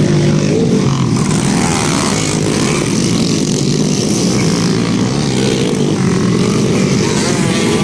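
Motocross motorcycle engines running loud and steady, their pitch wavering slightly.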